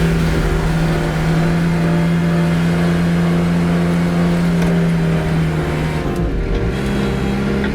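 Kubota L6060 tractor's diesel engine running at a steady speed under plowing work; about six seconds in its pitch dips and wavers, then settles a little higher.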